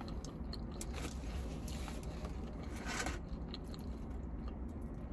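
Close-up chewing of a fried fish sandwich, with small wet mouth clicks and a brief rustle about three seconds in, over a steady low hum.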